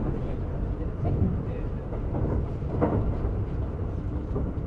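Cabin running noise of a Kintetsu 50000 series Shimakaze electric train at speed: a steady low rumble of wheels on rail, with a few brief, sharper sounds about a second and three seconds in.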